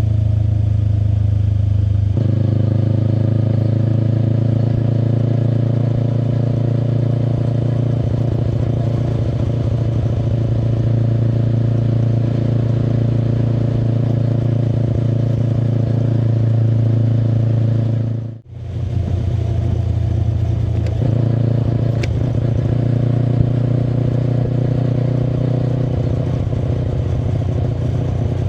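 Exhaust of a 2024 Kawasaki Eliminator SE's 398 cc parallel-twin engine through a BEAMS full exhaust system, running steadily while the motorcycle is ridden. The engine note shifts about two seconds in and again about three-quarters through, and the sound drops out briefly just before that.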